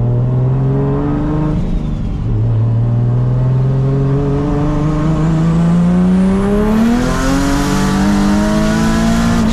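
BMW G82 M4's twin-turbo S58 inline-six accelerating hard at full throttle, revs climbing steadily, with a short dip about two seconds in as it shifts up into third gear, then pulling on through third.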